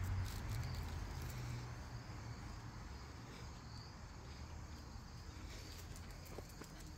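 Quiet outdoor ambience: faint insects chirping, under a low rumble that fades away over the first couple of seconds, with a few soft footsteps near the end.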